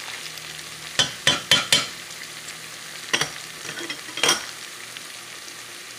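Onions, tomato and seasoning sizzling in hot oil in a metal pot, with a metal spoon stirring and scraping against the pot: a quick run of about four scrapes about a second in, then two more a few seconds later.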